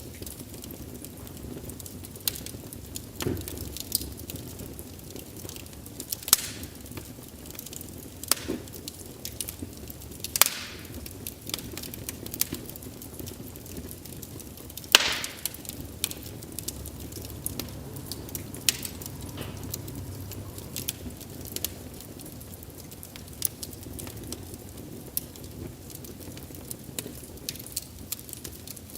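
Wood fire burning with a low steady rumble and irregular crackles and pops, one sharp pop standing out near the middle.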